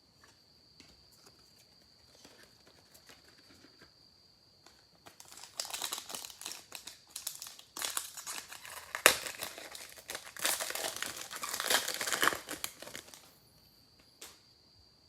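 A foil trading-card pack wrapper being torn open and crinkled by hand, with a few faint handling clicks at first, then several seconds of loud dense crinkling and tearing and one sharp snap in the middle.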